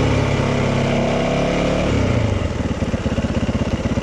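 Yamaha 450 dirt bike's single-cylinder four-stroke engine running steadily, then dropping about two seconds in to a fast, even pulsing at low revs.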